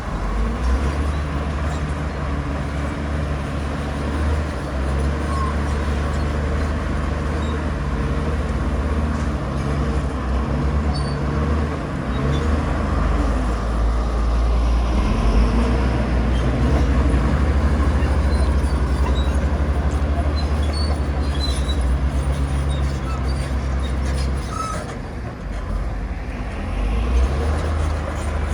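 Heavy diesel engine of earthmoving machinery running steadily with a deep low rumble, easing off briefly near the end.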